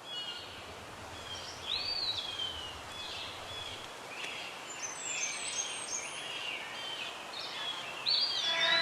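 Several birds calling, a run of short whistled and warbling calls with rising and falling glides, over a faint steady outdoor hiss.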